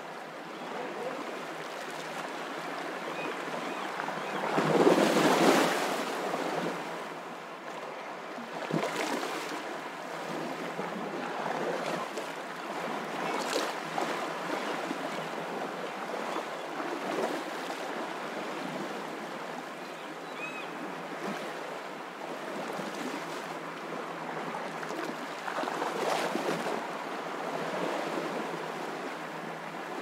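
Ocean surf breaking on a sandy beach and foam washing up the shore: a continuous hiss of water, with the loudest wave crash about five seconds in and smaller surges every few seconds after.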